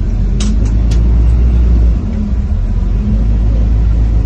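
A heavy low rumble of strong storm wind buffeting the microphone, with road-vehicle noise under it. Three short sharp clicks come about half a second to a second in.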